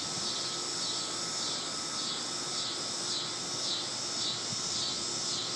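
Outdoor insect chorus: a steady high-pitched chirring that pulses evenly about twice a second, with a faint steady hum underneath.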